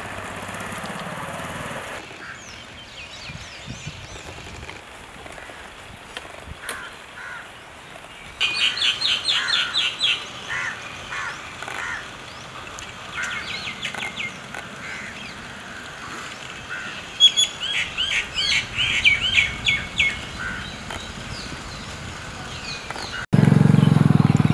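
Birds calling: quick runs of repeated high chirps, loudest about nine seconds in and again around eighteen seconds, over a quiet background. About a second before the end, a louder, lower sound cuts in suddenly.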